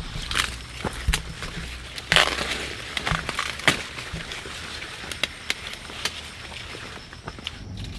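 Dry plant stalks and leaves being snapped and crushed: an uneven string of sharp cracks with rustling, the densest crackle a little over two seconds in.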